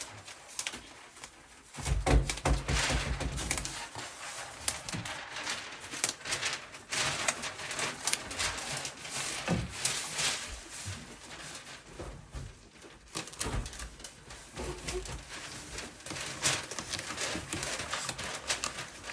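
Painter's masking tape being handled, pressed and smoothed onto a cabinet face frame: irregular crinkling, rubbing and small taps, with a low rumbling handling noise about two seconds in.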